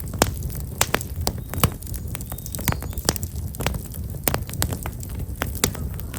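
Black locust firewood burning in an open fire, crackling with many sharp, irregular pops over a low, steady rumble.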